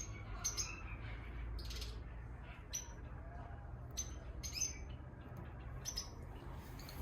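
Short, high-pitched bird chirps at irregular intervals, about ten in all, over a steady low hum.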